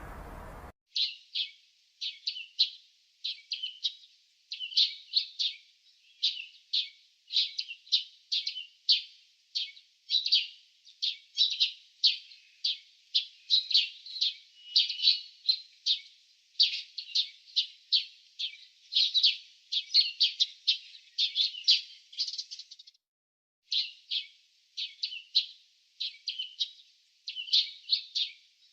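A bird chirping over and over, short high chirps about two a second, with a brief pause about two thirds of the way through.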